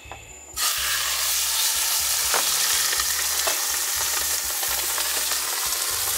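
Raw chicken goes into a hot frying pan and starts sizzling loudly about half a second in, then fries steadily.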